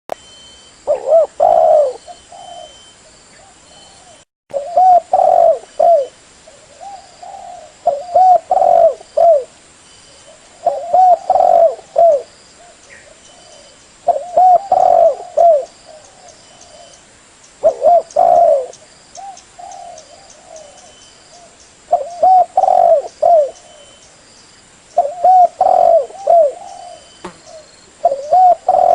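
Spotted dove (tekukur) cooing: a phrase of several low coos repeated about every three to four seconds, eight times in all.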